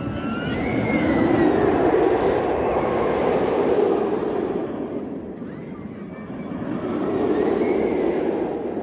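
Raptor, an inverted steel roller coaster, heard from a rider's seat as the train runs its course. The roar of the wheels on the track and the rushing wind swell twice as the train takes its elements.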